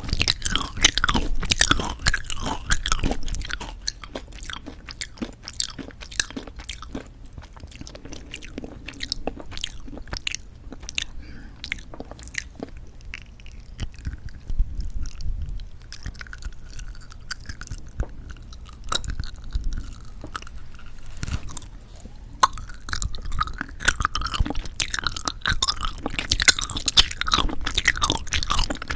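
Close-miked chewing of jelly candy, with wet, sticky mouth sounds and some crunching. Busy and louder for the first few seconds and again near the end, with slower, quieter chewing in between.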